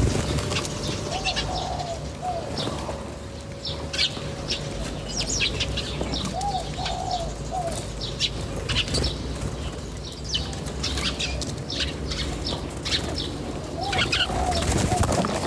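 Wild birds chirping: many short, high chirps scattered throughout, with a lower call of a few arched notes repeated three times.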